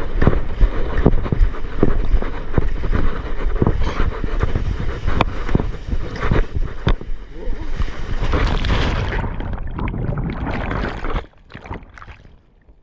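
Wind buffeting a GoPro's microphone over water splashing and slapping against a paddleboard, with many short knocks and a louder rush of whitewater hiss partway through. The sound drops away suddenly near the end.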